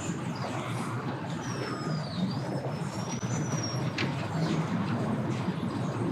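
Boat engines running steadily at low speed, a constant low hum under a wide rushing noise. A thin high whistle dips and then rises for about two seconds, and there is a short click about four seconds in.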